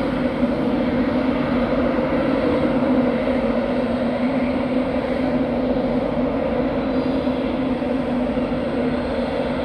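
Steady drone of a train moving slowly through a station, with a constant low hum that eases off slightly over the seconds.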